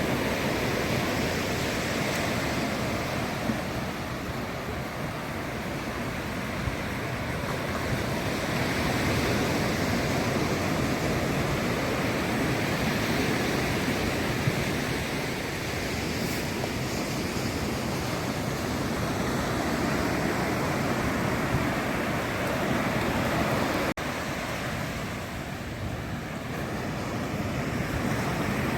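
Ocean surf breaking and washing up a sandy beach: a steady rush that swells and eases over several seconds.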